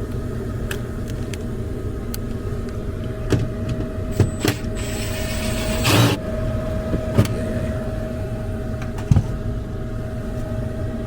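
The blower of a 96% gas furnace runs with a steady hum and a constant tone. Several short clicks and a brief rush of noise about five seconds in come from work on the ductwork.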